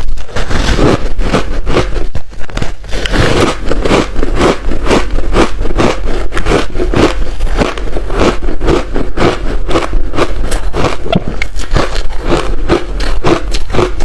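Close-miked crunching as large chunks of ice coated in matcha powder are bitten and chewed: a dense, continuous run of sharp, cracking crunches, over a steady low hum.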